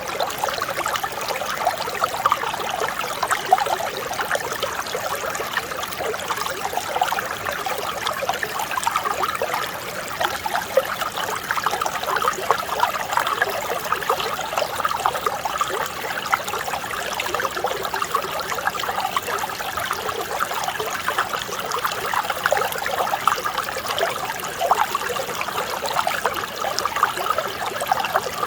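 Mountain stream flowing over rocks, a steady babbling and trickling of clear water.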